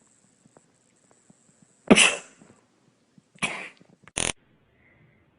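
Three short, harsh cough-like bursts, the first about two seconds in and the loudest.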